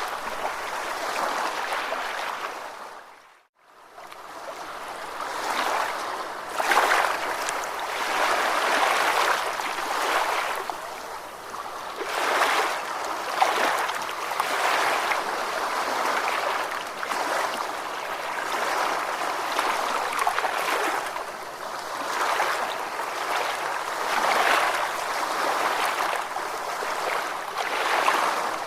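Ocean waves washing in and out, swelling and easing every second or two. About three seconds in the sound fades to silence and then quickly fades back up, as at the loop point of a recording.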